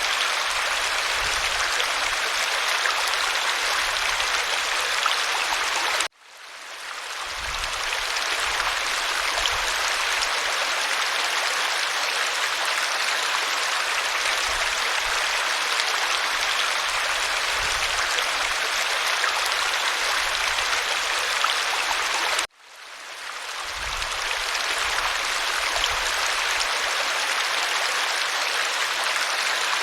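Waterfall rushing in a steady, even roar of water noise. Twice, about six seconds in and again about twenty-two seconds in, it cuts out abruptly and swells back up over a second or so.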